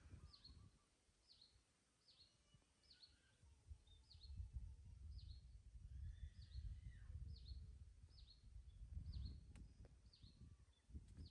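A bird calling with short, high, falling chirps, repeated evenly about every 0.7 seconds, over a faint low rumble.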